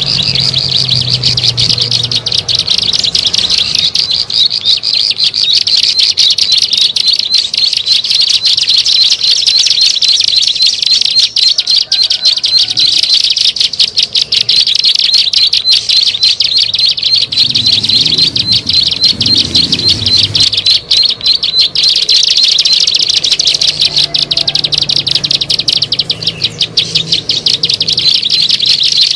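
Ciblek sawah (a prinia) call played as a bird lure: a loud, unbroken, high-pitched rapid chattering trill.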